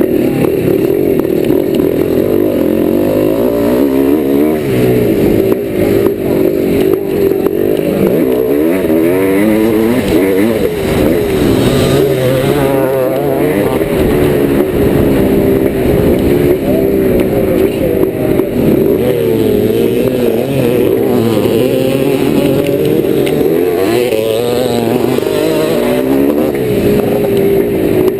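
A 1990 Yamaha YZ490's single-cylinder two-stroke engine under hard riding. Its pitch rises and falls over and over as the throttle opens and closes and the gears change.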